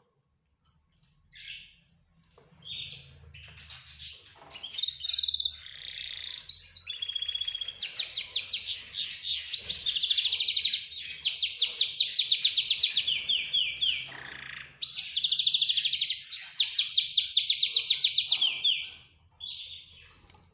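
Mixed cage birds (canaries, budgerigars, zebra finches and lovebirds) chirping together, with two long rapid trills, one starting about eight seconds in and a second about fifteen seconds in.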